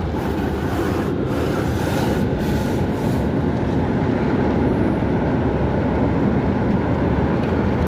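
Automatic car wash machinery running, heard from inside the car: a steady, dense rumble with no letting up.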